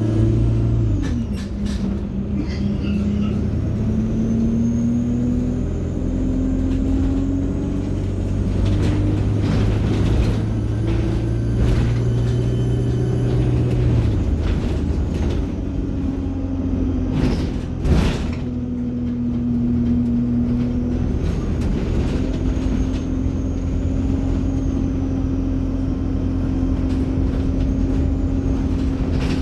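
Alexander Dennis Enviro 200 single-deck bus under way, its diesel engine and Allison automatic gearbox running through the gears: the engine note climbs in steps and drops back at each change. A faint high turbo whine rises and falls over it. A few sharp knocks or rattles come through, the loudest about two-thirds of the way through.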